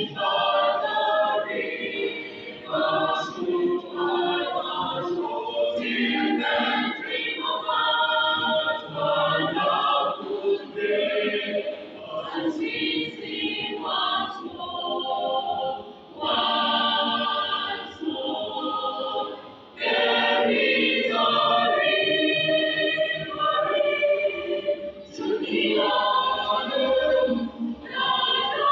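A choir singing, many voices together in sustained sung lines.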